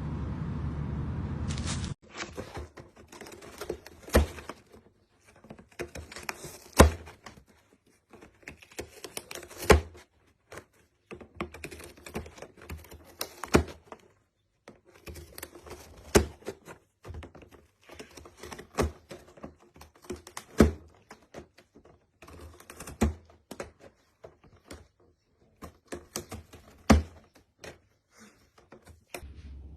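Irregular clicking and tapping, with a louder knock every two to four seconds.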